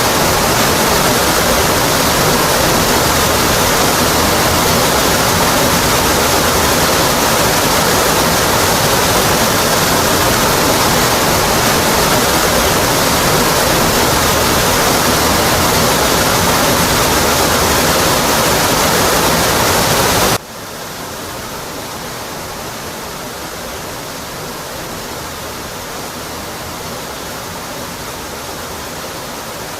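Steady rushing of a waterfall. About two-thirds of the way through it drops suddenly to a noticeably quieter, softer rush that then holds steady.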